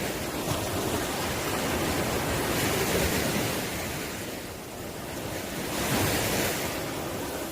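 Ocean waves breaking and washing in, a steady rushing hiss that swells twice, about three seconds in and again near six seconds.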